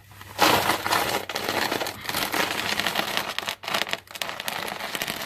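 Plastic oil drain pan being slid across a concrete floor under the car, a continuous scraping and crinkling rustle.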